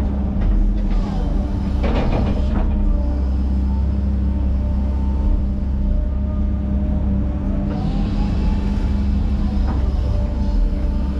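Diesel engine of an earthmoving machine running steadily under load, a constant low drone.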